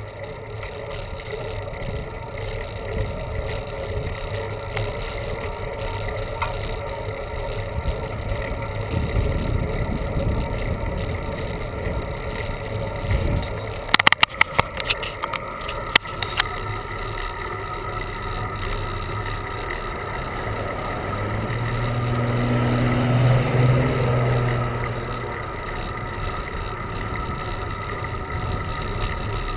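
Bicycle ride on a mountain road: steady wind and road noise on a bike-mounted camera. About halfway through comes a quick cluster of sharp clicks. A motor vehicle passes about three-quarters of the way in, its engine rising and then fading.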